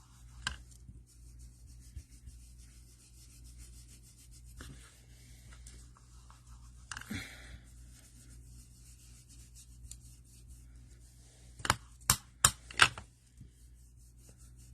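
Soft, faint rubbing of an ink blending tool worked over card stock through a stencil, with a brief scrape about seven seconds in and a quick run of four or five sharp taps near the end.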